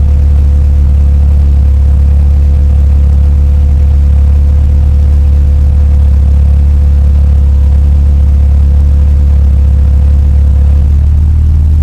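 Fiat 124 Spider's twin-cam four-cylinder engine running steadily, a loud low drone heard from inside the car, with a faint steady whine over it that stops near the end.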